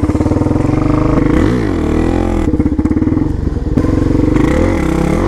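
Pit bike's small single-cylinder four-stroke engine running steadily, its engine speed dipping and climbing back up twice, about a second and a half in and near the end.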